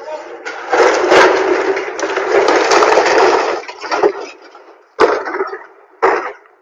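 A loud crash of cracking and breaking that lasts about three seconds, followed by two sharp bangs about a second apart.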